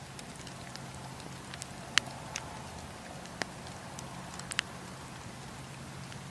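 Wood campfire burning with a steady low rush, cracking with scattered sharp pops; the loudest pop comes about two seconds in, and two more close together past the middle.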